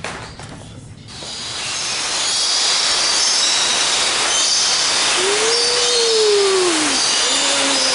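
Steady rushing hiss of falling water in an indoor aviary, swelling up about a second in and staying loud, with faint bird chirps above it.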